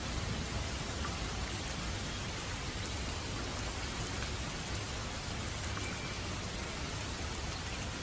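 Steady rainfall: an even hiss of rain with the odd distinct drop ticking.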